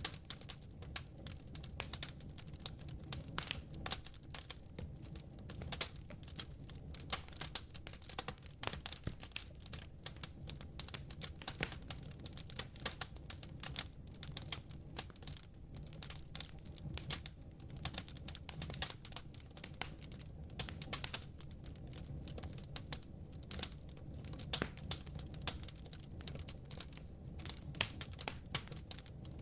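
Wood fire crackling in a fireplace: dense, irregular snaps and pops over a steady low background.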